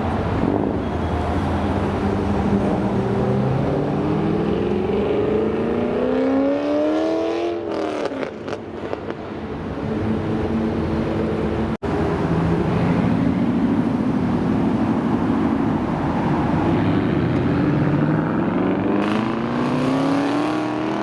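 American car engines running, with one accelerating in a long rising pull that fades away about eight seconds in; after a brief cut in the sound, another engine accelerates with rising pitch near the end.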